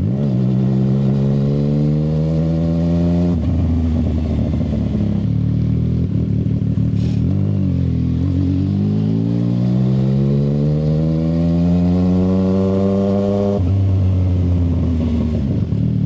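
CFMoto 675 SR-R's three-cylinder engine, breathing through an aftermarket shorty exhaust, accelerating with its pitch climbing. The pitch drops suddenly at an upshift about three seconds in and again near the end; around the middle it eases off, then builds again.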